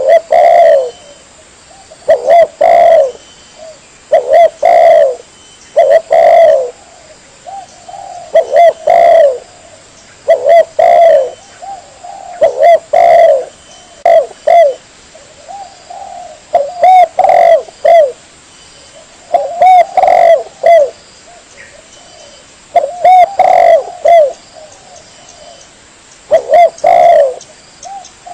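Spotted dove (tekukur) cooing loudly: short phrases of two or three low coos, repeated about every two seconds. It is a bird-lure call recording for drawing doves in.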